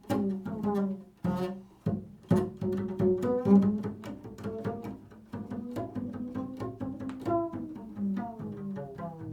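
Improvised solo music on a plucked string instrument: low single notes plucked one after another, each ringing out and fading before the next.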